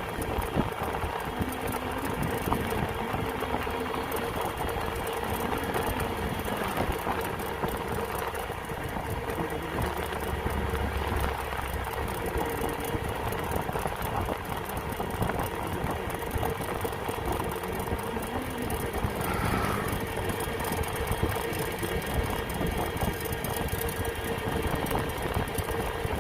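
An engine running steadily, with an even hum and no change in speed.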